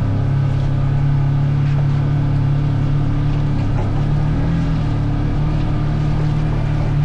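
Engine of the vehicle being ridden, running steadily at an even pace, as heard from on board.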